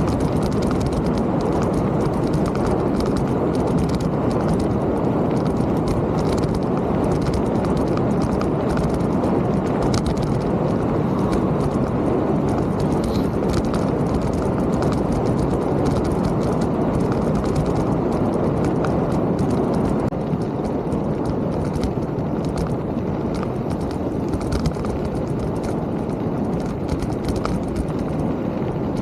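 Mountain bike riding over a trail: a steady low rumble of tyres and air on the camera, with frequent small clicks and rattles from the bike jolting over the ground. The rumble eases slightly about two-thirds of the way in.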